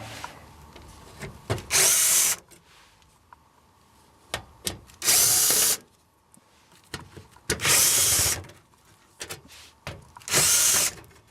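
Cordless drill/driver backing sheet-metal screws out of the HVAC plenum's access cover, in four short runs of the motor with small clicks and taps between them.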